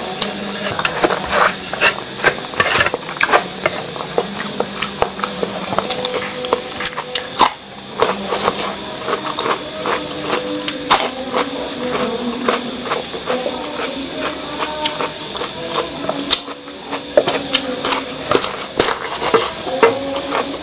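Close-miked eating sounds: chewing and lip smacking on pieces of cucumber and leftover food, a dense run of sharp, irregular wet clicks.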